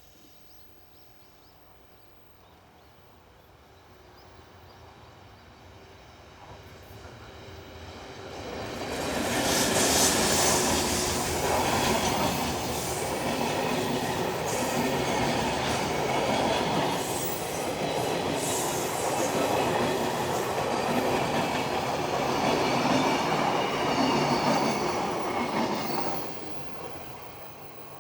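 Freight train passing on the main line: the rumble of the locomotive and wagons on the rails builds from about four seconds in, stays loud from about nine seconds until about twenty-six, then drops away quickly as the train goes by.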